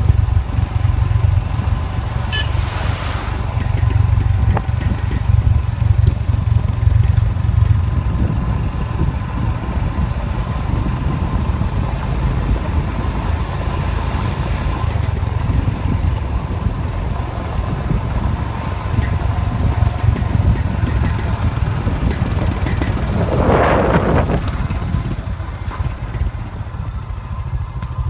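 Royal Enfield Himalayan motorcycle's single-cylinder engine running steadily, with a brief louder sound about 23 seconds in.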